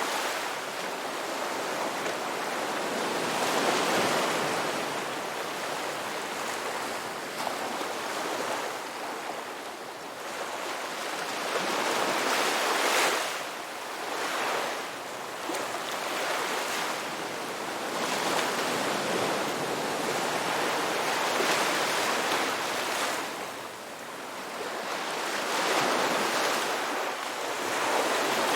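Ocean waves breaking and washing on the shore, a steady rushing surf that swells and eases every few seconds.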